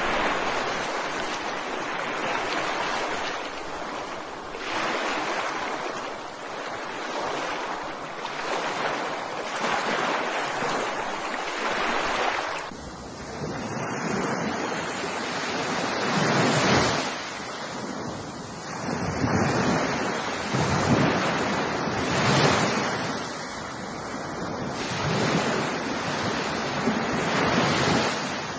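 Ocean surf on a beach, waves breaking and washing back in swells every two or three seconds, with a deeper rumble from about halfway through.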